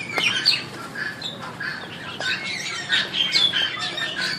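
Birds squawking, many short harsh calls following one another in quick succession.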